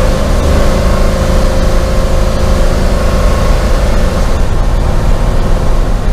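LS-swapped Chevrolet C10 pickup heard from inside the cab while driving: a loud, steady low engine and road rumble, with a steady whine that fades about four seconds in.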